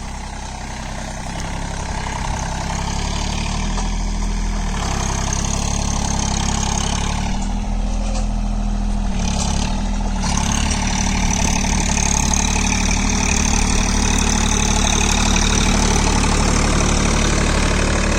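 John Deere 3028 EN mini tractor's three-cylinder diesel engine running steadily while pulling a ridger, in high second gear at about 1500 engine rpm. It grows louder over the first few seconds, then holds steady.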